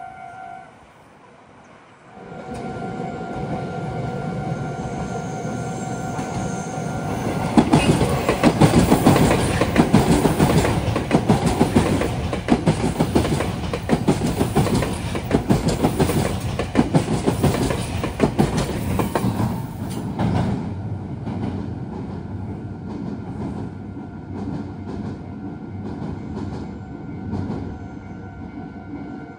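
A Meitetsu Rapid Express of 3500 series and 3150 series electric cars passes close at speed, building up from about two seconds in. Its wheels clatter rhythmically over the rail joints through the loudest stretch, then the sound fades after about twenty seconds. A level-crossing warning bell rings steadily before and after the train.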